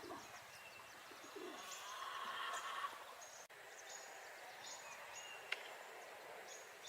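Birds calling outdoors: many short, high chirps repeating, with a sharp click a little past halfway.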